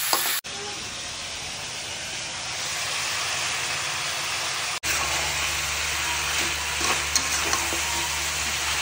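Chicken pieces sizzling as they fry in a kadai, stirred with a spatula that now and then clicks and scrapes against the pan. The sizzle drops out briefly twice.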